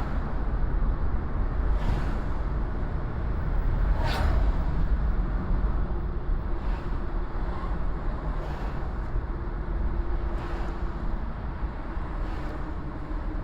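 Car driving through city traffic: a steady low rumble of engine and road, with short bursts of noise every couple of seconds.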